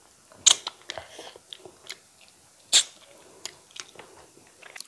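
Close-miked chewing of a hand-fed mouthful of rice and eel curry: wet mouth smacks and clicks at an uneven pace, two of them louder, about half a second in and near three seconds.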